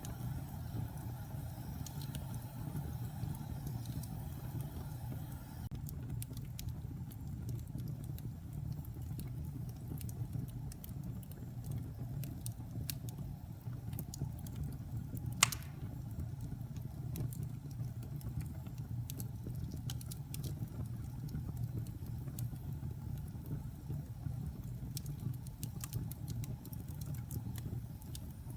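Wood fire burning in a fireplace: a steady low rumble with scattered small crackles, and one sharp loud pop about halfway through.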